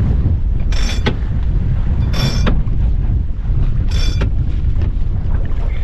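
Strong wind buffeting the microphone aboard a sailing yacht under sail, with water rushing along the hull. Three short bright bursts stand out, about a second, two seconds and four seconds in.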